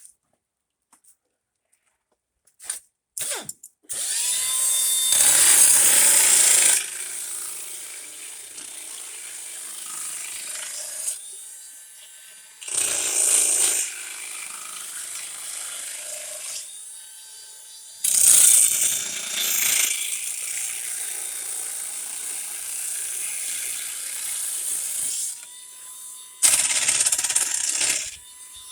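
A power tool with a small electric motor, like a drill, running in several long stretches. Its pitch rises as it spins up at the start of each stretch, and there are sudden breaks between the stretches.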